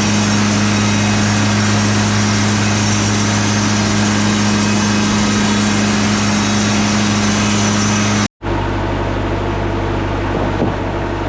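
Engine of a Wood-Mizer LT40 Super Hydraulic bandsaw mill running steadily with a strong low hum. About eight seconds in, the sound drops out for an instant and comes back as a steady drone with a changed tone.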